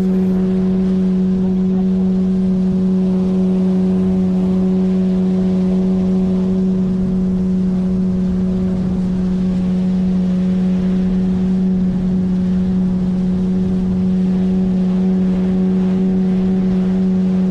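9.8 hp outboard motor running at a steady cruising speed, pushing an inflatable PVC boat along. It gives one constant, even drone with no change in pitch.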